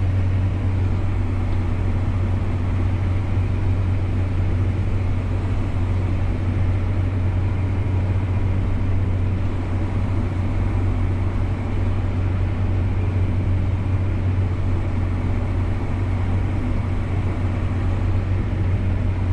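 Tractor pulling a grain cart through the field, its engine and drivetrain droning steadily with a strong low hum, heard from inside the cab.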